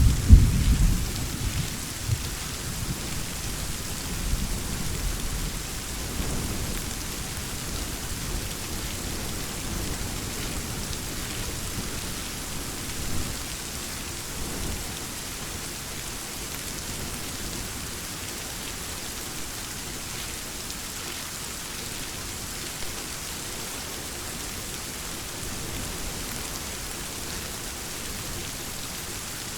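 Steady heavy rain hissing on a surface. A loud thunderclap is rumbling away at the start and fades out over the first couple of seconds, with a few weaker low rumbles after it.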